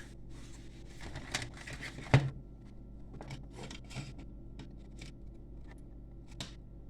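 Handling noises on a workbench: rustling and scattered small clicks, with one sharp knock about two seconds in, over a steady electrical hum.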